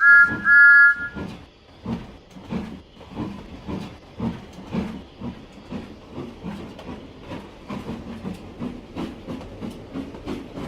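Steam locomotive giving two short whistle toots, then puffing away from a standstill, its exhaust beats slow at first and gradually quickening.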